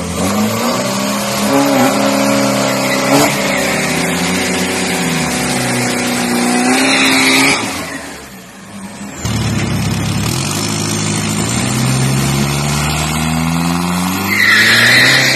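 Turbodiesel SUV engines revving hard at a drag-strip start line during a burnout, with the tyres squealing just before the first SUV launches away about seven seconds in. After a short lull, a Toyota Fortuner's diesel revs up with rising pitch, and its tyres squeal near the end.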